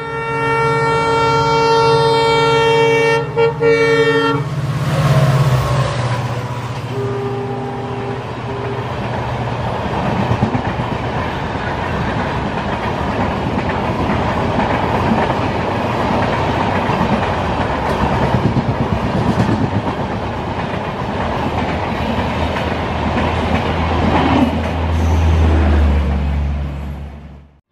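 Express train's horn sounding one long blast that breaks briefly near the end, with short horn notes a few seconds later. Then the train runs through the station at speed: a long, loud rush of wheels on rail, with clickety-clack and a deep rumble that swells near the end as the last coaches pass.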